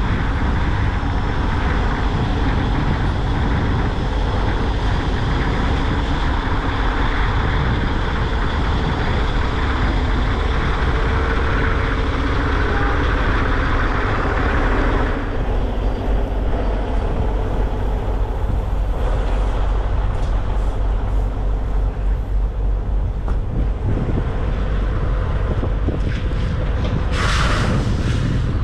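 Semi truck's diesel engine running with a steady low rumble, and a short hiss near the end.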